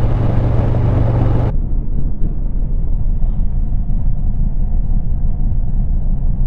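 Harley-Davidson Road Glide's V-twin engine running under way, with a steady low rumble of engine and wind noise. About a second and a half in, the sound turns muffled and duller.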